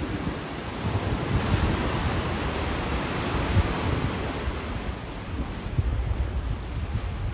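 Sea waves breaking and washing up the beach, swelling about a second in and easing off past the middle. A gusty low rumble of wind buffets the microphone throughout.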